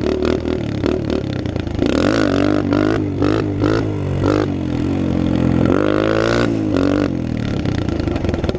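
Dirt bike engine revving under changing throttle. Its pitch rises and falls several times in quick succession in the middle, then climbs once more and drops back about six or seven seconds in.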